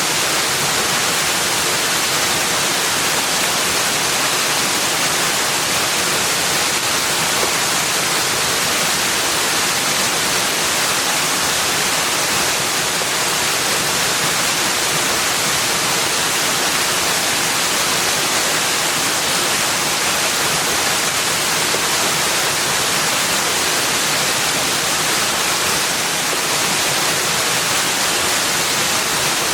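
Steady rushing water: an even, unbroken hiss with no birdsong or other separate sounds.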